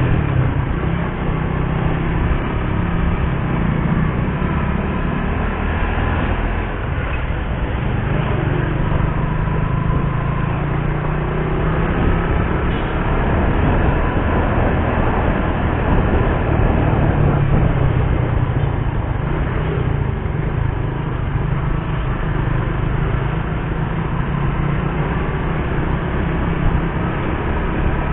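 Suzuki GSX-R150's single-cylinder engine running on the move, a steady low drone that rises and falls a little, mixed with a rush of wind and road noise.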